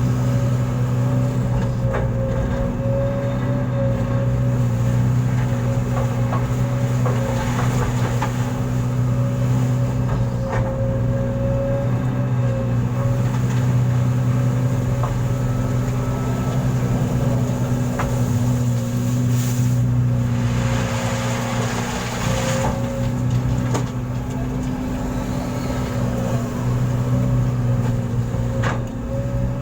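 Heavy diesel engine running steadily with a deep drone and a steady higher whine. Occasional sharp clicks or knocks, and a brief hiss about two-thirds of the way through.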